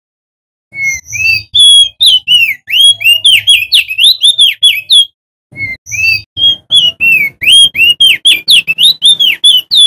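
Male opior jambul (crested heleia) singing: two fast phrases of loud, high whistled notes that slide up and down, several notes a second, with a brief pause between the phrases.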